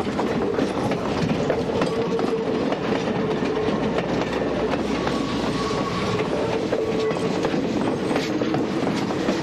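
Passenger train cars rolling past close by, wheels clacking over the rail joints, with a steady tone running under the rumble.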